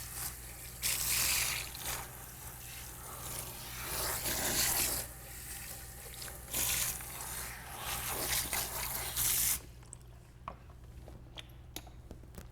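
Hot water running and splashing over a head of hair while it is wetted, coming in uneven surges, then stopping near the end, when a few small clicks remain.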